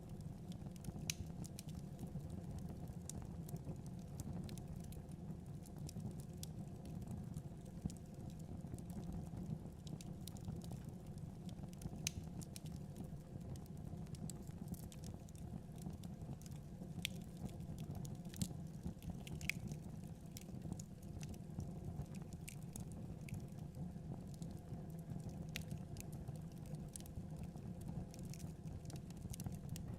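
Wood fire burning in a fireplace: the steady low noise of the flames with frequent, irregular sharp crackles and pops from the logs.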